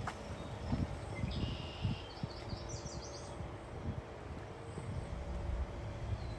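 Outdoor ambience with an uneven low rumble and a faint steady hum. About a second in, a bird gives a short run of high chirps.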